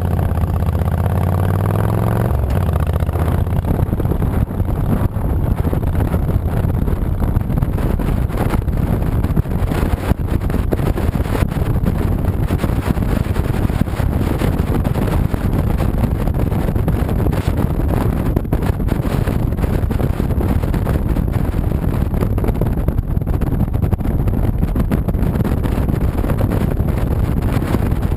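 2007 Honda VTX 1300C V-twin motorcycle riding on the road. Its low engine note is clear for about the first two seconds, then a steady rush of wind and road noise largely covers it for the rest of the ride.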